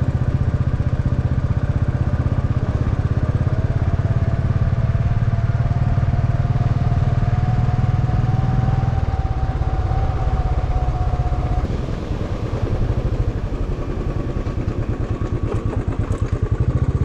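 Motorcycle engine running steadily while riding. A faint whine rises slowly through the first two-thirds and stops.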